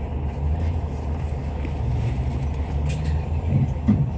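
Hyundai Universe Space Luxury coach heard from inside the cabin while under way: a steady low engine and road drone, with a few short rattles near the end.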